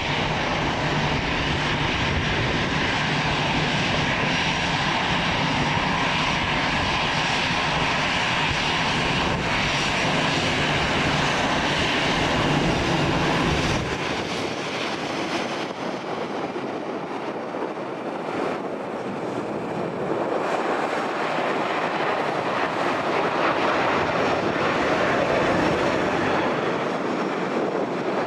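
Wizz Air Airbus A321neo jet engines at takeoff power, a loud steady roar. A heavy low rumble underneath drops away about halfway through while the engine roar carries on.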